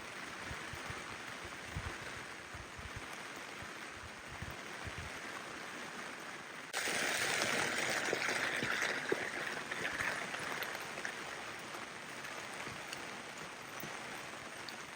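Steady rain, with a few dull low knocks in the first seconds. About seven seconds in the sound jumps suddenly louder into a stronger rushing hiss of water, which eases off after a few seconds.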